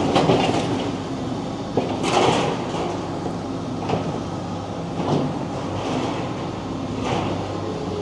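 Demolition excavator's engine running steadily, with irregular scraping and crunching every second or so as it breaks concrete and steel off the building.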